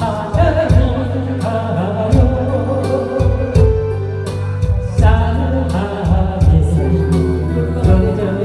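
A sung song performed over a backing track with a steady drum beat and a strong bass line, the vocal melody wavering above it.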